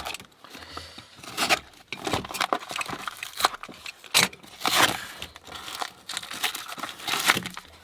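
Padlock packaging being torn open and handled: irregular crinkling, crackling and tearing of the box.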